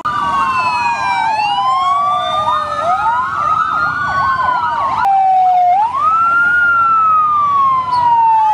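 Several fire engine sirens sounding at once, their pitches slowly rising and falling out of step with each other, with a fast yelp of quick up-and-down sweeps over them in the first half. The pattern changes abruptly about five seconds in, leaving the slow wails.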